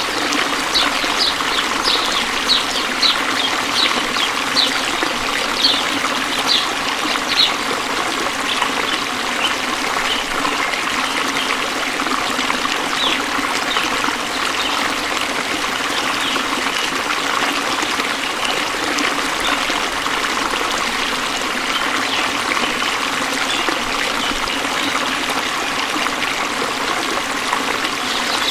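Waterfall: a steady rush of falling, splashing water. Over roughly the first eight seconds, a run of short high-pitched sounds repeats about twice a second on top of it.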